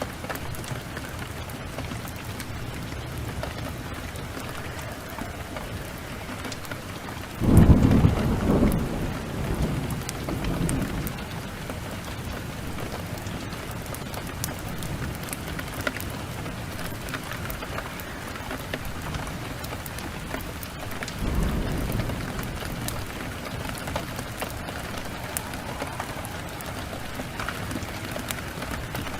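Steady rain with fine crackling from a fireplace fire. A loud thunderclap breaks in about seven and a half seconds in and rumbles away over a few seconds, and a weaker roll of thunder comes about two-thirds of the way through.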